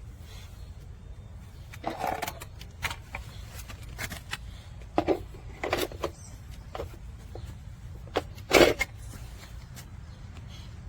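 Objects being handled: scattered clicks and knocks, the loudest about two seconds in and again near the end, over a low steady hum.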